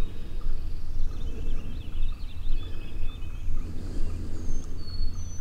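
Songbirds singing in the background: scattered chirps and a few clear whistled notes, some gliding down and then held, near the start and again near the end. Under them runs a steady low rumble, the loudest sound.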